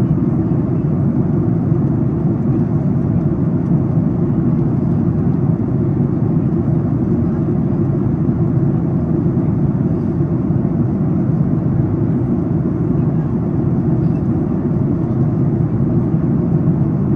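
Steady low rumble inside the cabin of a Boeing 737 MAX 8 in flight during descent: airflow and engine noise with no change in level.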